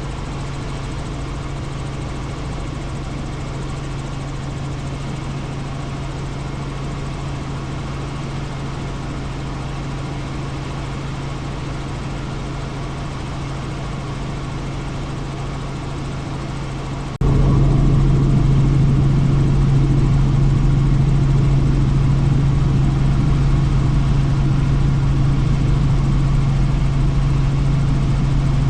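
Helicopter in flight: steady engine and rotor noise with a strong low hum. About two-thirds of the way through, it jumps suddenly louder and stays there.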